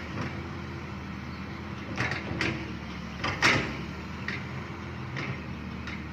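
Excavator's diesel engine running steadily, with a few sharp metallic knocks and clanks, the loudest about three and a half seconds in.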